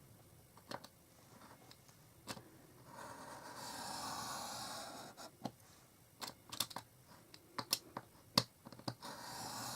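Craft knife blade drawn through cardstock along a metal-edged ruler in light scoring passes: two scratchy strokes of about a second or two each, one a few seconds in and one near the end, among scattered small clicks and taps.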